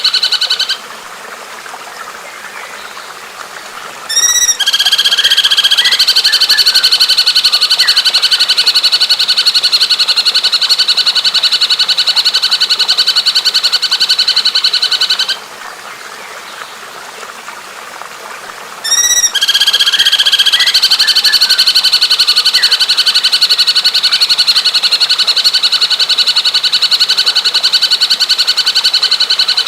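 A recorded bird giving a long, fast, buzzy trill at an even pitch, heard twice for about ten seconds each time. Each trill opens with a few short rising notes. Between the trills there is a softer background hiss.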